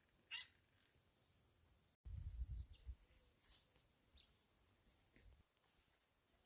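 Near silence with a few faint, short chirps, and a brief low rumble just after an abrupt break about two seconds in.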